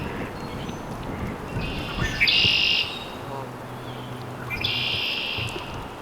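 A songbird singing repeated buzzy, high trills, each under a second long, about two seconds in and again near the end. A faint low steady hum runs through the middle.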